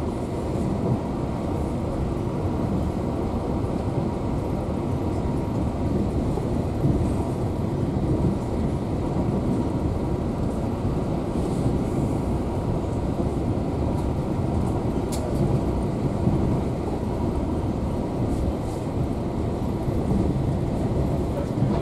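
Passenger train carriage running at speed: a steady rumble of wheels on the track, heard from inside the car.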